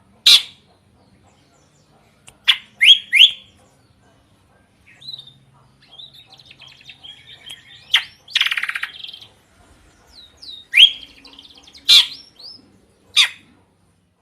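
A drongo (srigunting) singing a loud, varied song: sharp whistled notes, some rising quickly in pitch, separated by pauses, with soft chattering in the middle and one harsh raspy note.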